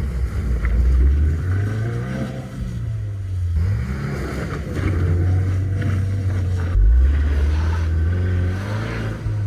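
Subaru WRX's turbocharged flat-four engine driving under throttle. Its pitch rises and falls several times and dips sharply about seven seconds in.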